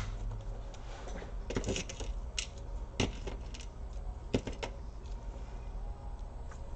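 Small metal laptop screws and a screwdriver being handled on a laptop's plastic case: scattered light clicks and taps, a few sharper ones in the first half, fewer near the end.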